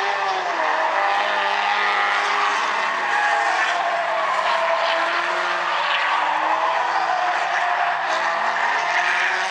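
Several Stinger 8 race cars' engines running on track, their pitches rising and falling together as the pack laps, with a steady hiss of tyres.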